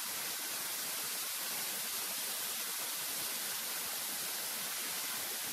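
Steady rushing of water from a waterfall, an even, unbroken hiss.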